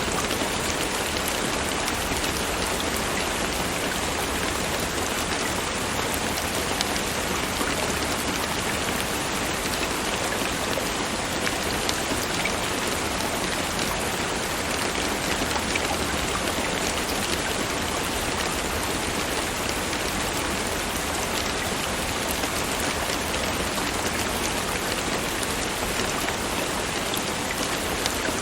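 Steady rain falling, a dense even patter with small scattered drop ticks.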